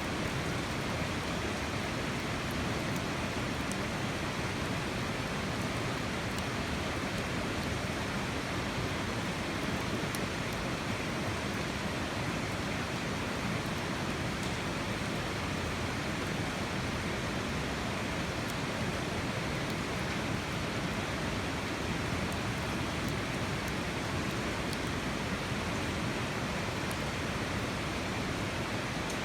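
Steady, even rushing noise with a few faint high ticks scattered through it.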